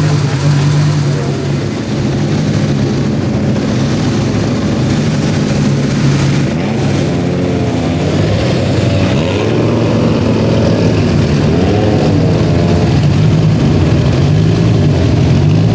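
Rally car engine idling steadily, with the revs rising and falling a few times partway through.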